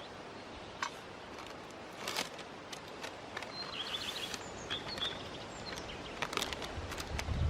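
Forest ambience: a steady faint hiss with a few short bird chirps about halfway through, scattered small clicks and knocks, and a louder low thud near the end.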